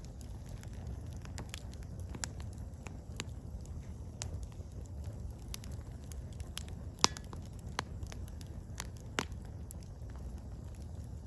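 Burning firewood crackling: sharp pops and snaps at irregular moments over a steady low rumble of the flames, with one loud pop about seven seconds in.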